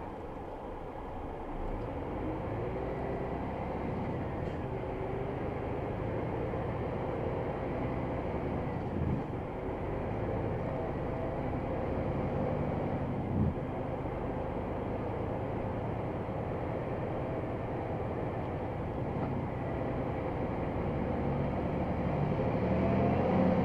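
Scania XT G500 truck's 13-litre six-cylinder diesel running steadily while the loaded truck is driven, with two short knocks in between. It gets a little louder near the end.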